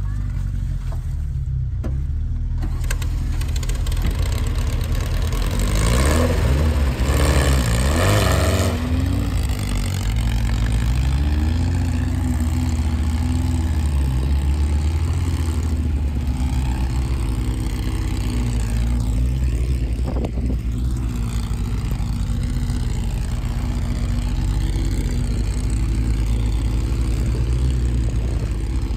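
Air-cooled Volkswagen flat-four engine running steadily as the vehicle drives along, with a louder, rougher stretch about six to nine seconds in.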